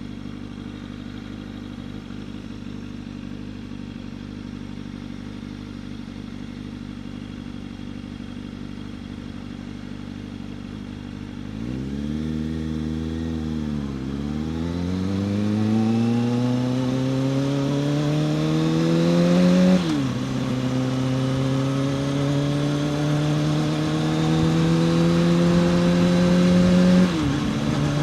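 Kawasaki ZX-6R inline-four sport-bike engine idling steadily, then pulling away about twelve seconds in. It climbs in revs and shifts up twice, the pitch dropping sharply at each shift.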